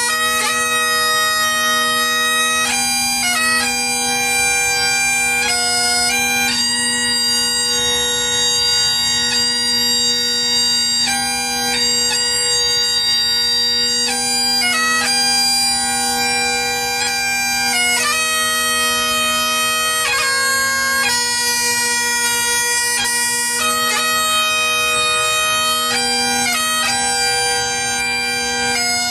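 Great Highland bagpipe playing a slow tune: a steady drone under a chanter melody that moves from note to note.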